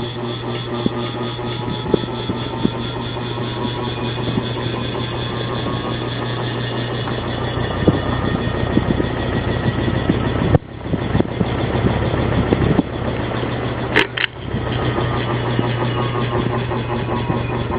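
Ceiling fan running with a steady motor hum and an even whir. The sound drops out briefly twice in the second half, with a sharp click at the second dropout.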